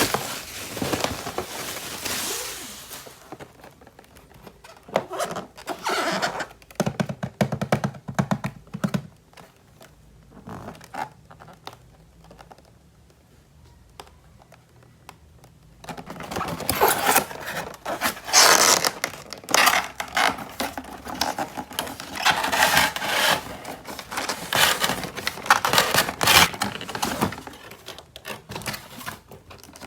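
Hands handling plastic toys and their packaging: scattered clicks, knocks and scraping, quieter for a few seconds in the middle, then a busier stretch of scraping and rustling.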